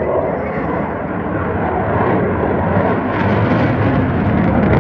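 Aircraft flying past: a loud rushing engine noise that swells and is loudest near the end.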